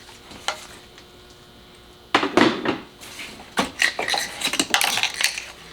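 Clicks and clattering of hard plastic and metal parts being handled as ignition coils and spark plug wires are pulled off the engine with a puller tool. There is a single click about half a second in, then a run of rattling clicks from about two seconds in until near the end.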